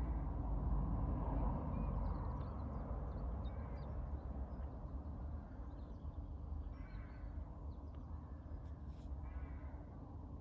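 A crow cawing twice in the second half, over a steady low rumble, with faint chirps of small birds.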